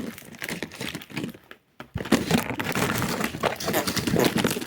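Paper crinkling and rustling from handmade paper items being handled, in irregular crackly bursts, with a short pause just before two seconds in.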